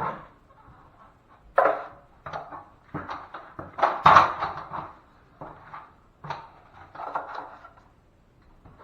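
A run of irregular knocks and scrapes from drywall tools being handled, loudest about four seconds in.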